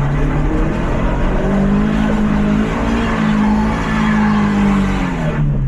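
Lifted Mazda MX-5's four-cylinder engine revving under load. The revs climb about a second and a half in, hold high for a few seconds, then drop near the end.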